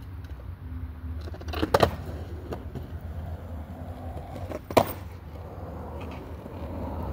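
Skateboard wheels rolling with a steady low rumble, broken by sharp wooden clacks of the board, a quick double clack about two seconds in and a single one near five seconds.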